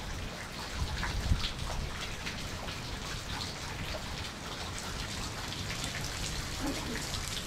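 Steady rain falling, with many separate drops ticking on surfaces close by. A brief low bump just over a second in is the loudest moment.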